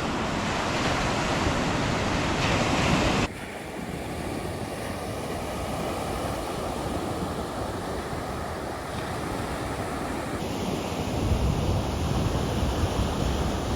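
Ocean surf washing onto the beach, with wind buffeting the microphone. The sound drops suddenly about three seconds in, and a low wind rumble grows near the end.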